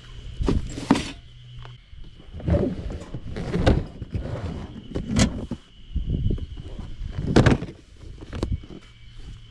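Irregular knocks and rustles about once a second, like gear being handled or steps on the ground, over a faint steady high drone of insects.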